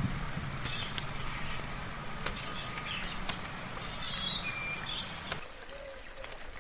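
Birds chirping in short calls over a steady hiss of light rain, with scattered sharp drips. A low hum cuts off about five seconds in.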